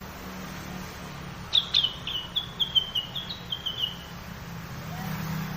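Song of the bird known in Indonesia as cak wilis or rengganis, the kind used as a lure call: a quick run of about ten short, high, downward-slurred notes starting about a second and a half in. A steady low hum runs underneath.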